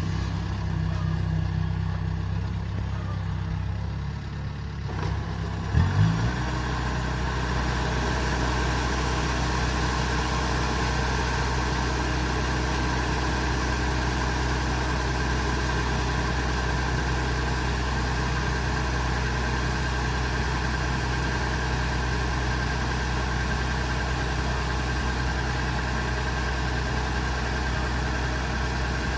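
Kubota DC70 Pro combine harvester's diesel engine running steadily. About six seconds in there is a short, loud double knock and the engine's note shifts, then it runs on steady with more hiss from the machinery.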